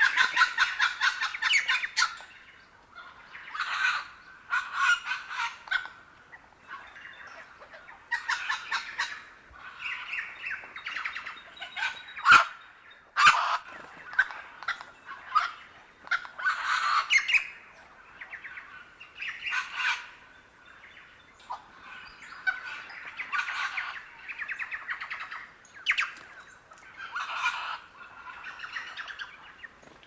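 Bird calls in a series of short, rapid rattling bursts separated by pauses. Two sharp clicks come a little under halfway through.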